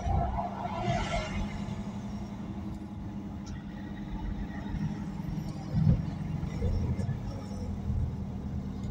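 Cars idling in stopped traffic: a steady low engine hum, with a brief higher sound in the first second and a low thump about six seconds in.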